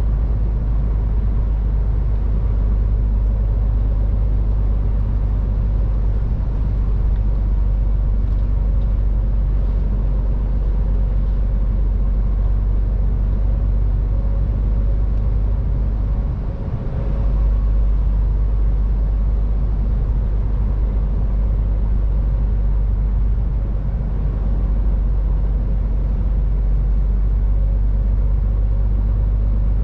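MAN TGX 18.510 semi-truck driving on the road: a steady, heavy low rumble of engine and tyre noise with a faint steady whine over it, dipping briefly about sixteen seconds in.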